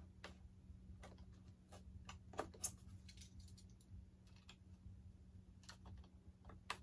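Faint, irregular small clicks and crackles of a glued seam on a foam-and-plastic RC jet airframe being cut and pried apart by hand, over a steady low hum.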